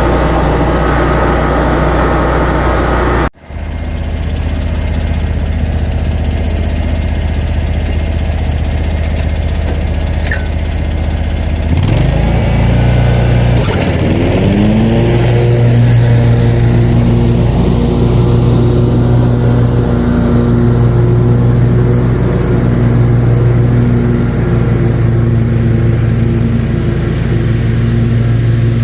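Mower engine running steadily, with a sudden brief break about three seconds in; around twelve seconds in the engine rises in pitch and settles into a higher steady run by about fifteen seconds.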